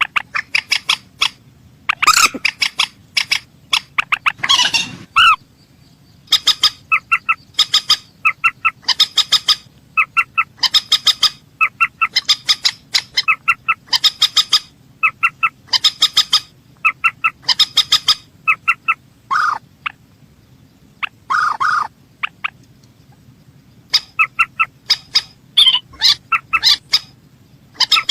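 A mandar sawah (a rail) calling over and over: quick runs of short, sharp, piping notes, each run lasting about half a second to a second, with brief pauses between runs and a few longer, harsher notes mixed in.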